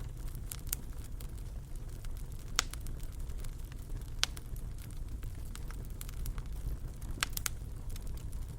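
Wood fire crackling in a fireplace: a steady low rumble of the flames with scattered sharp pops, the loudest about two and a half, four and seven seconds in.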